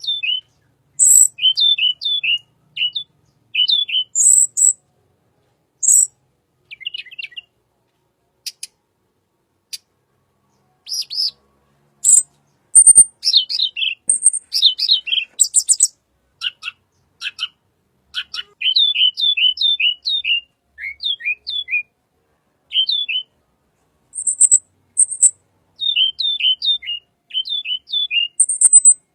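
Tledekan songbird calling: quick runs of short chirps, each with a downward hook, mixed with thin very high notes, coming in bursts with a pause of a few seconds near the start.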